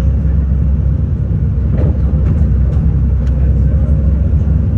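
City bus under way: a steady low engine and road rumble, with a few light clicks about two to three seconds in.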